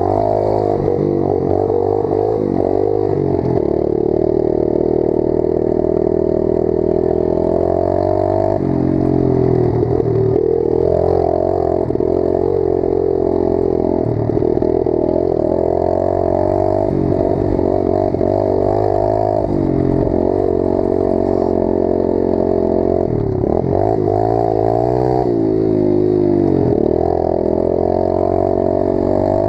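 Pit bike engine running under way, its revs rising and falling repeatedly as the bike is ridden along a trail.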